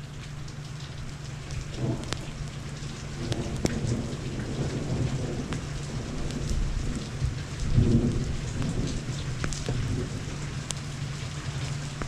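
Heavy monsoon rain falling steadily, with scattered sharp drops. Thunder rolls in low rumbles that swell and peak about eight seconds in.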